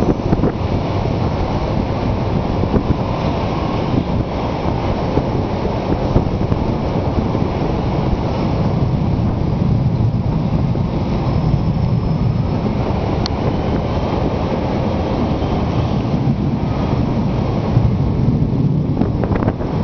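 Steady, loud rushing storm noise: wind buffeting the microphone during a thunderstorm.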